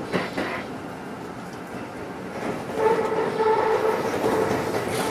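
Electric commuter train running out of a station, its wheels knocking sharply over rail joints or points just after the start. From about two and a half seconds in, a steady pitched tone rises over the running rumble and holds.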